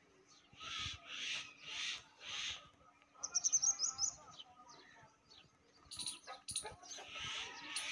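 Birds chirping and calling outdoors: a few harsh chattering calls, then a quick run of high chirps about three seconds in, with two sharp clicks a couple of seconds later.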